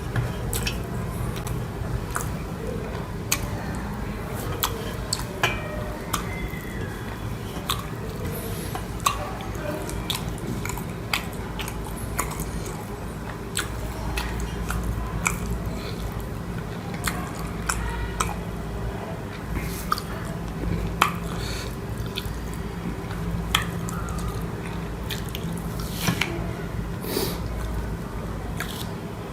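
Close-miked chewing and mouth sounds of a person eating egg curry with rice, with many short wet clicks and smacks scattered throughout, over a steady low hum.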